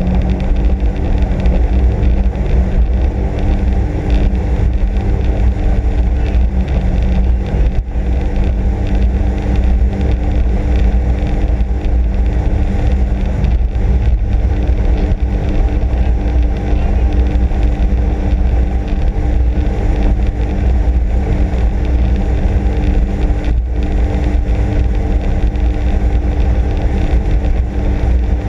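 Sea-Doo RXP-X 260 jet ski's supercharged Rotax four-stroke engine running at a steady speed, with a deep rumble underneath.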